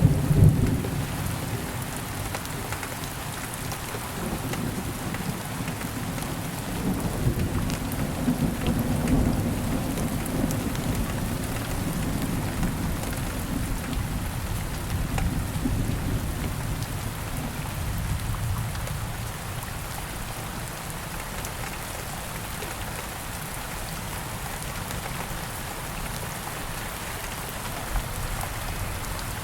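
Steady heavy rain with rolling thunder, a deep rumble loudest at the start and swelling again about a quarter of the way in before dying away, leaving the rain alone.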